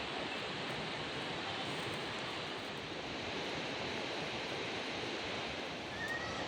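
Steady, even rushing of water, unbroken throughout. A faint short high chirp sounds near the end.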